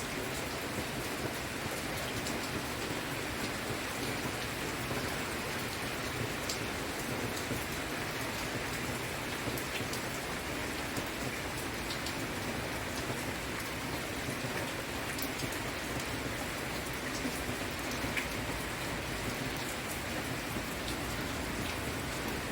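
Steady rain falling and pattering on surfaces, with scattered sharp ticks of individual drops.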